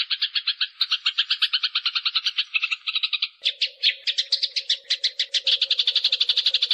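Eurasian tree sparrows chattering in a fight: a fast, unbroken run of sharp chirps, about ten a second. A little past halfway the chirps change pattern and a low steady tone joins underneath.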